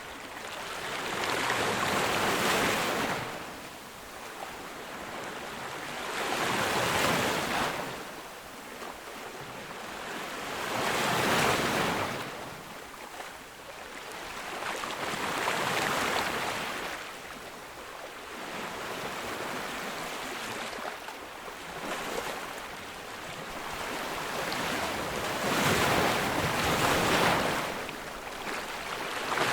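Ocean waves breaking on a beach, in slow surges that build and fade about every four to five seconds, the last one loudest.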